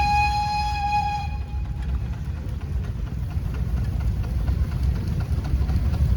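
Steam whistle on a home-built steam engine with a Case boiler, sounding one steady toot that cuts off about a second in, followed by a steady low rumble.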